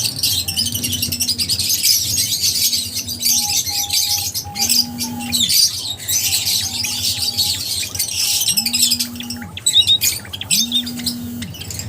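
Lovebirds chirping continuously, a dense chatter of high calls. Underneath, a low tone swells and fades about every two seconds.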